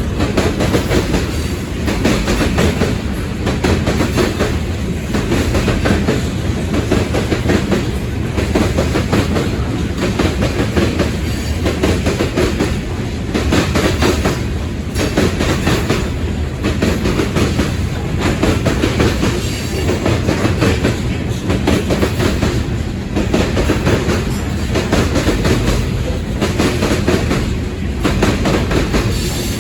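Freight cars of a mixed freight train rolling past at speed, the wheels clicking over rail joints in a steady repeating rhythm over a continuous rumble.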